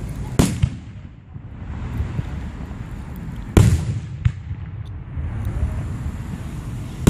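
Aerial fireworks shells bursting with sharp booms: one about half a second in, the loudest about three and a half seconds in with a smaller pop just after, and another at the very end. A steady low rumble runs underneath.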